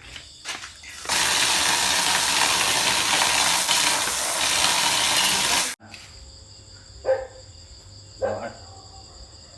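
A loud, even rushing noise starts about a second in and cuts off abruptly a little before six seconds. Crickets chirp steadily around it, with a few short knocks or voices near the end.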